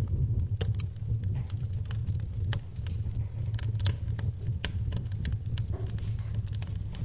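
Wood fire burning in a fireplace, crackling with frequent irregular sharp pops over a steady low rumble, with rain in the background.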